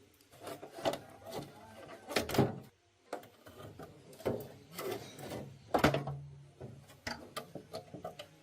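Irregular knocks and clunks of tools and parts being handled, about a dozen separate strikes, some with a short ring. The loudest come about two seconds in and about six seconds in.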